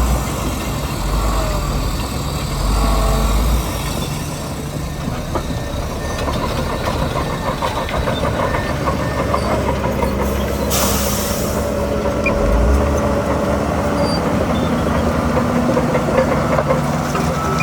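Crawler bulldozer's diesel engine running steadily under work, with its steel tracks clanking and squeaking. A short hiss about eleven seconds in.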